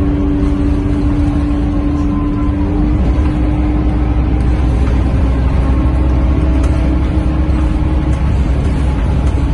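Cabin sound of a moving Scania K230UB single-deck bus: low rumble from its five-cylinder diesel and the road, with a steady whine that fades for a couple of seconds about three seconds in and then returns.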